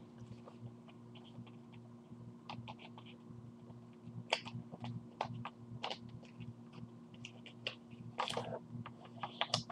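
A sheet of paper being folded and creased by hand: scattered crinkles and short crackles, coming in clusters, over a faint steady low hum.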